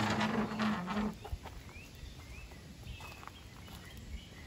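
A long animal call ends about a second in. It is followed by a few short, rising bird chirps and faint scattered ticks.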